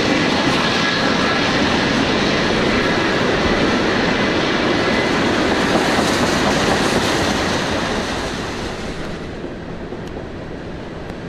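Loaded taconite ore cars of a freight train rolling past on the rails, a steady noise of steel wheels on track. It grows quieter about eight to nine seconds in.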